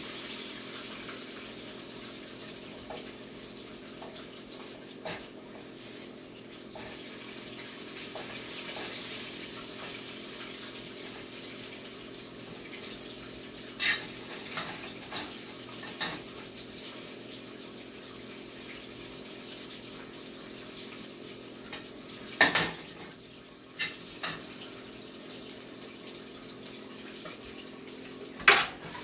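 Food frying in hot oil in a skillet, a steady sizzle, broken by a few sharp clinks and knocks of a utensil against the pan. The loudest knock comes about three-quarters of the way through.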